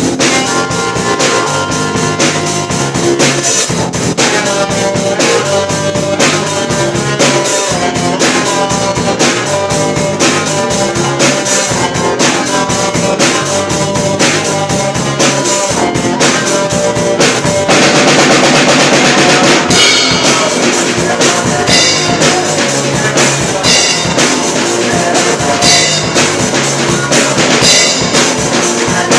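Live rock band rehearsal: a drum kit with kick and snare keeping a steady beat under guitar. A couple of seconds of continuous cymbal wash come about two-thirds of the way through.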